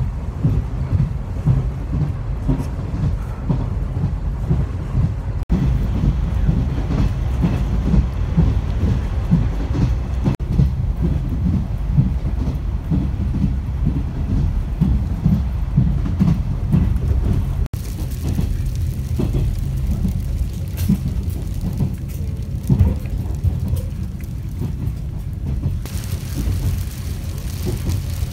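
Interior running noise of a JNR 455-series express-type train car (the unpowered Kuha 455 driving trailer): a steady low rumble of wheels on the rails with some clickety-clack.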